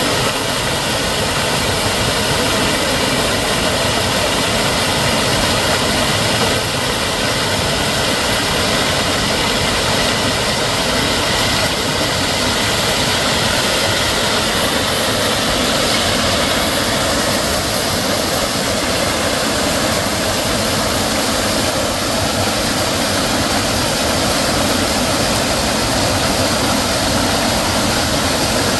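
Valley stream water rushing steadily, a loud, even roar of water.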